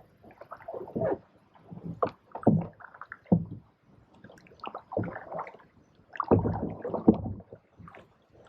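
Canoe paddles stroking and swishing through the water at irregular intervals during a sharp turn, with gurgling water and knocks against the hull.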